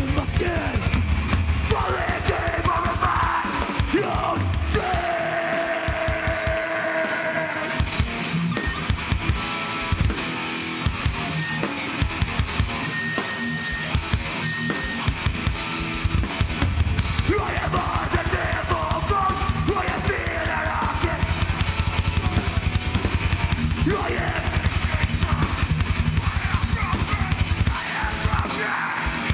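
Heavy hardcore band playing live with no vocals: fast, dense drumming with a driving bass drum under distorted guitar lines that bend in pitch.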